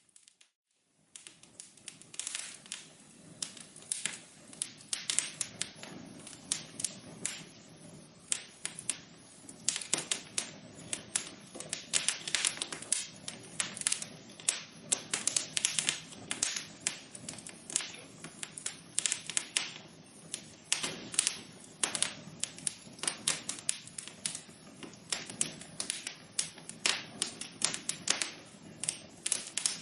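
Wood fire in a fireplace crackling, with dense, irregular sharp pops and snaps over a low hiss. The crackling starts about a second in, after a brief silence.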